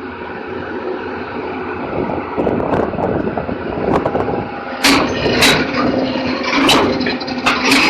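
Excavator diesel engine running steadily, with a series of sharp metallic clanks and squeals starting about five seconds in.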